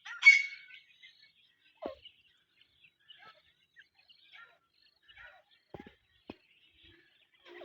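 Francolin chicks cheeping: one louder high call just after the start, then soft, scattered short chirps, with a few faint taps in between.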